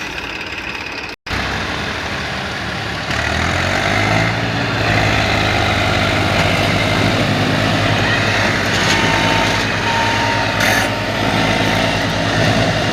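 Massey Ferguson 7250 tractor's diesel engine running, revving up about three seconds in and held at high revs.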